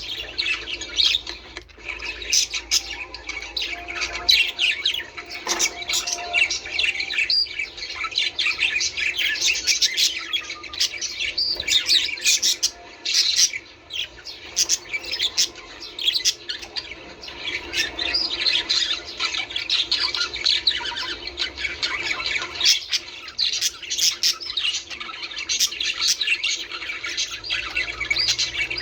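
A flock of budgerigars chattering: a dense, unbroken stream of many short overlapping calls.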